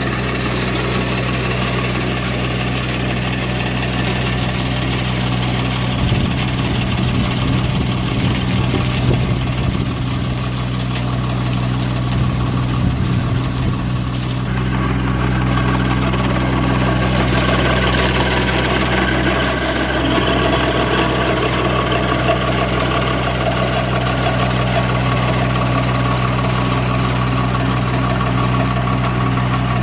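Massey Ferguson GC1710 sub-compact tractor's diesel engine running steadily, with a rougher, uneven stretch from about six to fourteen seconds in.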